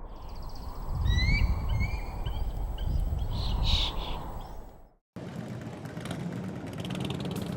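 Birds chirping in short rising calls over a strong, uneven low rumble; about five seconds in the sound cuts off and a different, steadier noise takes over.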